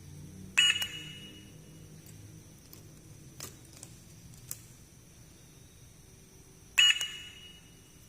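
Small hard miniature toy pieces clinking against each other twice, about six seconds apart, each clink ringing briefly. A few light taps fall between the two.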